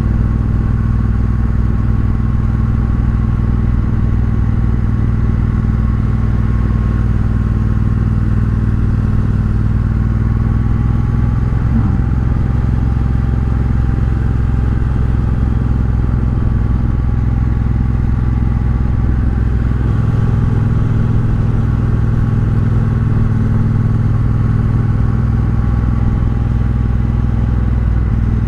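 Triumph Bobber's 1200 cc parallel-twin engine running through a Vance & Hines aftermarket exhaust while the bike is ridden at a steady pace. The engine note changes about twelve seconds in and again about twenty seconds in.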